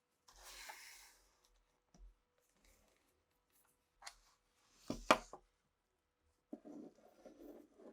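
Hands handling an old pistol and its parts: a brief rustle, then a few sharp clicks, the loudest about five seconds in, and a duller scraping noise near the end.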